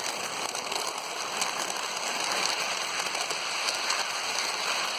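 Lionel toy train running on its track, a steady crackling rattle with a few small clicks.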